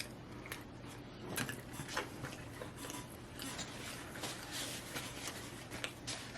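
Quiet rustling and scattered clicks of food packaging being handled, over a low steady hum.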